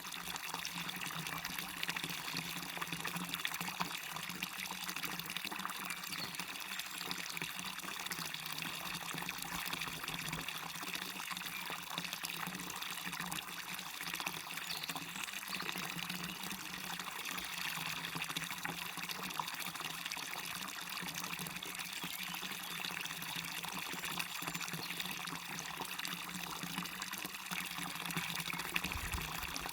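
Small waterfall and stream running steadily: an even rush of falling and splashing water, mostly in the upper range with little deep rumble.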